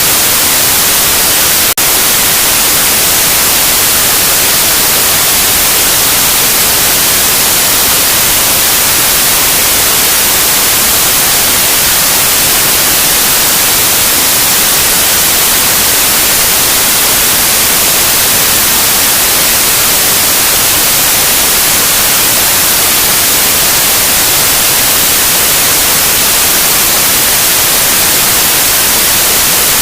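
Loud, steady white noise: an even hiss, brightest in the treble, with one momentary dip a little under two seconds in.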